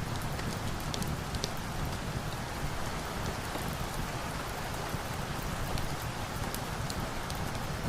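Steady rain falling, an even hiss with scattered sharp little ticks of drops landing.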